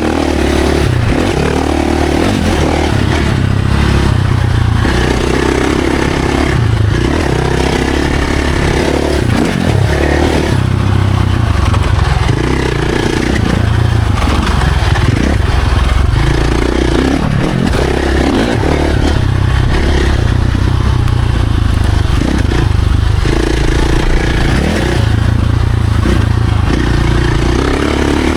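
Dirt bike engine at full tilt on a trail ride, the throttle opened hard and backed off again and again every second or two, over a constant rush of wind and rattling.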